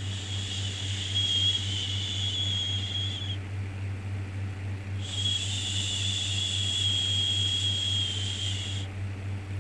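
Long, soft 'shhh' shushing sounds for soothing a baby, each lasting about four seconds with a short pause between them, over a steady low hum. One shush ends about three and a half seconds in, and the next runs from about five seconds in to near the end.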